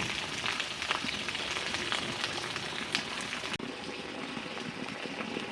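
Rain pattering, with many small drops ticking over a steady hiss; the hiss thins suddenly about three and a half seconds in.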